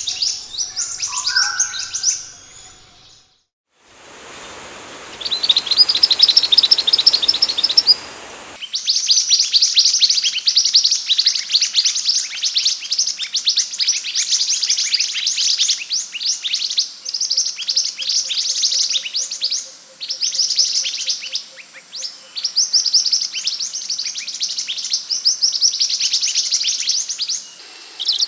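Scarlet minivet (sepah hutan) song: long, dense runs of rapid, high, thin chirping notes, broken into bursts several seconds long with short pauses between them. For a few seconds near the start a steady hiss sits under the song.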